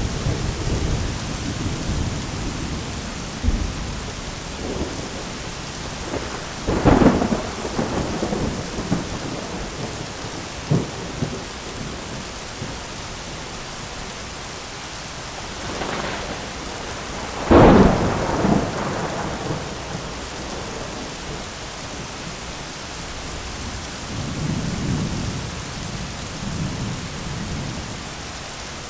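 Thunderstorm: steady rain hiss with thunder, including two sharp claps about seven and eighteen seconds in, the second the loudest, and a softer low rumble near the end.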